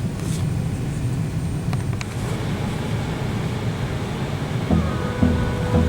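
Steady airliner cabin noise: a low rumble with a hiss like rain, which the passengers put down to the air system. Background music with a beat comes in near the end.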